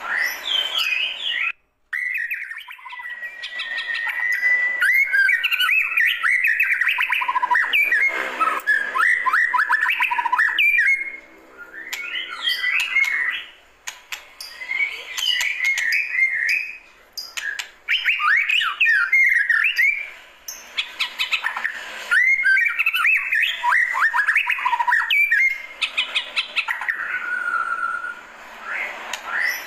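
White-rumped shama singing: bursts of varied, clear whistled phrases and fast runs of notes, some gliding up and down, with short pauses between bursts.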